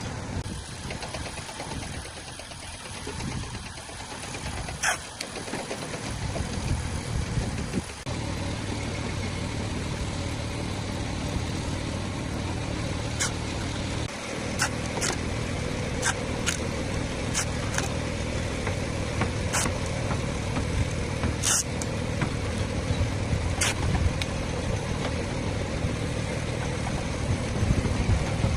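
A car engine idling steadily, with sharp clicks or taps now and then.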